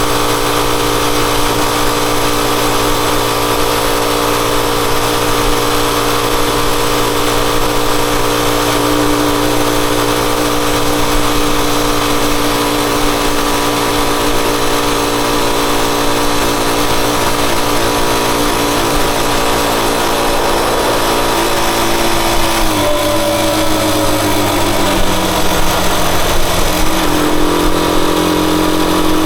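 Rusi Chariot 175 motorcycle engine running steadily, its pitch dipping about three-quarters of the way through and then climbing again near the end.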